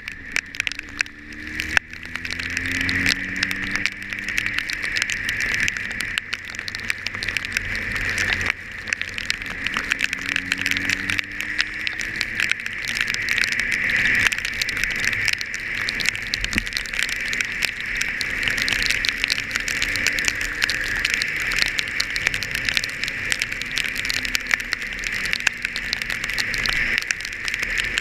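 Rain and wind hissing steadily while riding, with raindrops crackling on the microphone, over an engine whose pitch rises several times as it speeds up.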